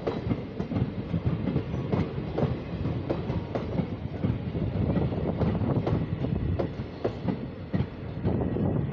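Passenger coaches of the Mysore–Dharwad Express rolling past, their wheels clattering over the rail joints in a repeating clickety-clack over a steady rumble.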